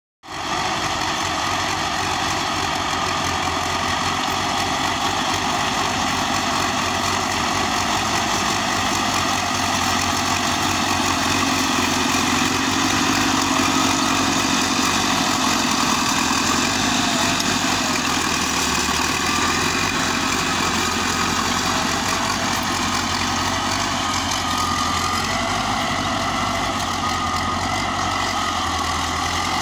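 DT-75 crawler tractor's diesel engine running steadily at idle.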